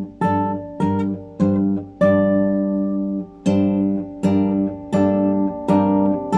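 Classical guitar improvisation: plucked chords struck one after another, about every two-thirds of a second, each left to ring and fade, with one chord held longer in the middle.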